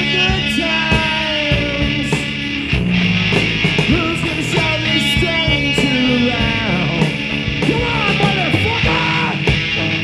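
Rock band playing an instrumental passage: electric guitar with bent, gliding lead notes over bass and drums with cymbal hits.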